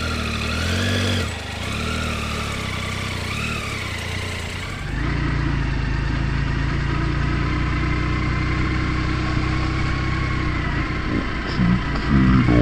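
Motorcycle engine running as the bike is ridden, its pitch rising and falling over the first few seconds. About five seconds in the sound changes abruptly to a steadier engine drone.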